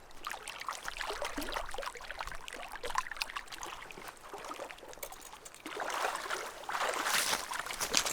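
Water splashing and trickling in small irregular bursts at the lake's edge, a little louder near the end.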